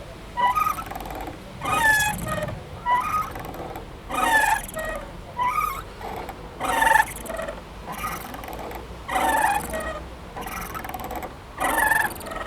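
Playground swing squeaking in a steady rhythm: a squeak that bends in pitch on each pass, with a louder one about every two and a half seconds and a softer one between.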